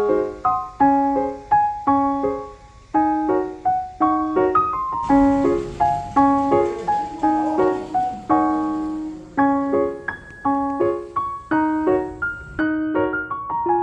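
Background piano music: a gentle, steady run of repeated notes and chords.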